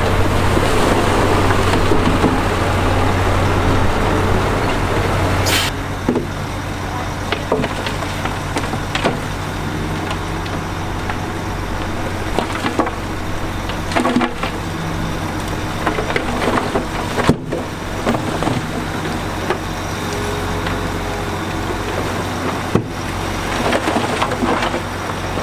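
Heavy diesel earthmoving machinery running steadily, with a rougher, louder spell for the first five seconds or so, then scattered sharp knocks and clatter of rock and dirt.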